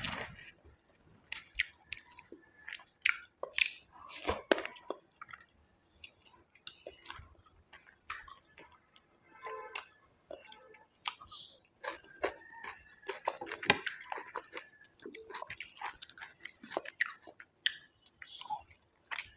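Close-up chewing of a person eating rice and curry: irregular wet mouth clicks, smacks and bites throughout.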